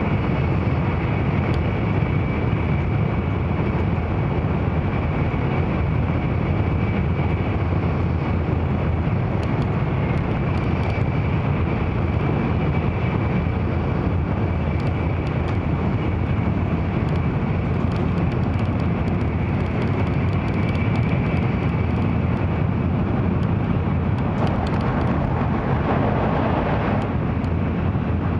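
Steady rumbling cabin noise of an N700 series Shinkansen running at speed, heard from inside the passenger car, with a faint steady high whine over it. A brief swell of rushing noise comes near the end.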